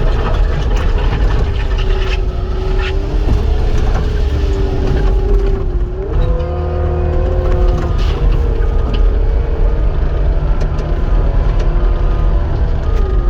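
Cat 259 skid steer's diesel engine and hydraulics running under load. The pitch steps up about halfway through and drops back down near the end, with a few clanks along the way.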